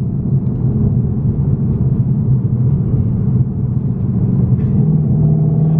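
Car driving at speed: a steady low engine drone mixed with road noise, with no break or sudden change.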